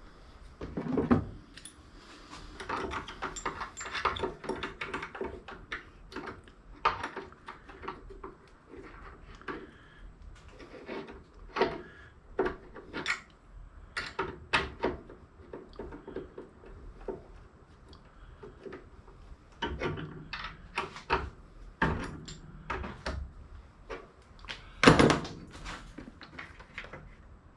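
Pieces of scrap metal clanking and knocking as they are handled and sorted: a run of irregular clanks, the loudest about a second in and near the end.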